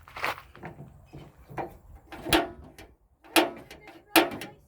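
A series of about five sharp metallic clanks and knocks with a short ring, from the metal parts of a gas barbecue grill being handled.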